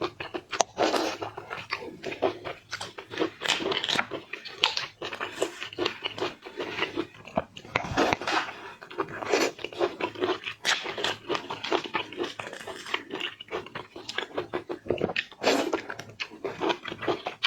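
Close-miked eating of seafood: repeated biting and chewing with many crisp, irregular crunches and wet mouth clicks throughout.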